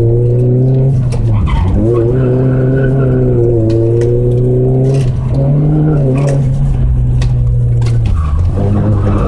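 Car engine running hard, heard from inside the cabin, its note dropping briefly three times and picking up again as the car works through the cone slalom.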